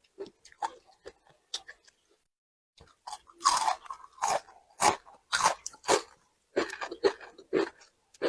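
A person chewing crisp, crunchy food close to the microphone, bite after bite at about two crunches a second, with a brief silent break about two seconds in.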